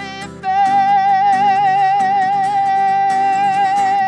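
Music: a male voice sings 'slowly' and holds one long note with a slight vibrato, over plucked acoustic guitar.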